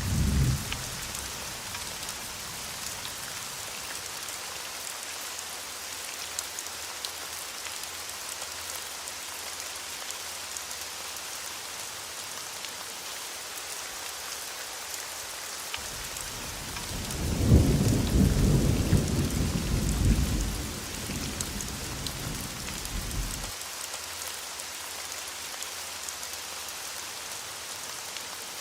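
Steady heavy rain hissing on surfaces, with a thunder rumble dying away just after the start and a long roll of thunder rising about 17 seconds in and rumbling for about six seconds before fading.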